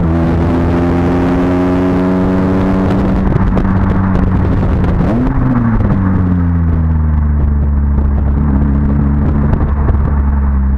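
Honda Civic Type R FN2's 2.0-litre four-cylinder engine running through a Magnaflow exhaust at a steady engine speed. Its pitch eases down slightly over the first few seconds, and about five seconds in it briefly rises and falls in a short rev.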